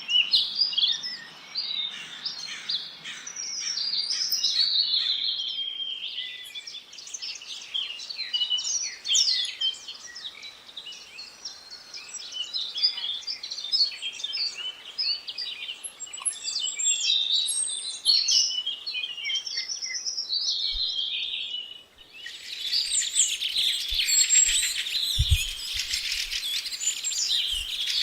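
Many small songbirds chirping and singing over one another in a busy chorus of quick high notes and trills. About 22 seconds in, the sound cuts abruptly to a denser chorus over a steady high hiss, with a few short low thumps near the end.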